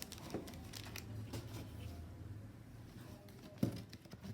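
Faint handling noises: scattered light clicks and taps over a low hum, with one sharper knock about three and a half seconds in.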